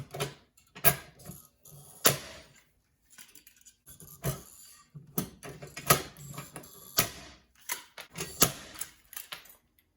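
Irregular sharp clicks and knocks of hardware being worked on a metal ammo can, as its carry handle is fitted back on; about a dozen strikes with handling noise between them.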